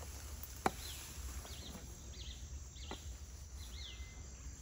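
A bird calling with a string of short, high, down-slurred notes, about two a second, over a low steady rumble of forest ambience. A sharp click comes just under a second in.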